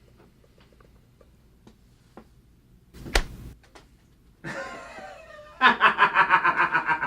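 One sharp thump about three seconds in, then loud, rapid, rhythmic laughter near the end.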